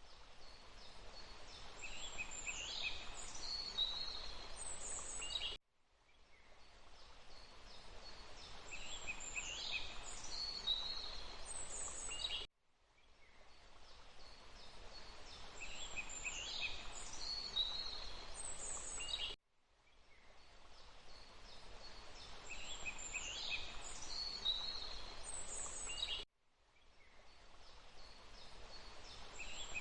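Forest ambience: a steady hiss of water with a few high bird calls over it. It is a short recording looped about every seven seconds: four times, the sound cuts out abruptly and fades back in, and the same bird calls repeat on each pass.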